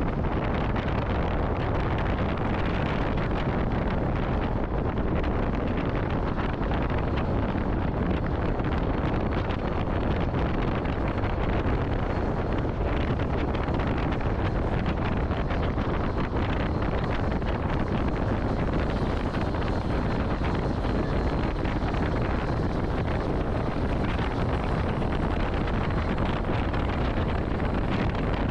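Train rolling past at close range: a steady rumble of wheels on the rails, with wind noise on the microphone.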